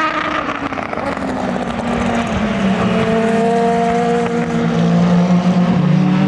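Race car engines running on track, with one engine note rising steadily in pitch through the middle.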